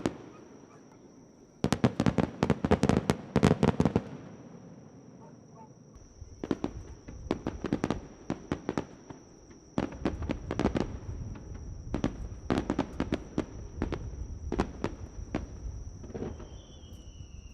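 Fireworks crackling: rapid sharp pops in clusters, a dense run about two seconds in and scattered crackles through the rest. A thin, slightly falling whistle starts near the end.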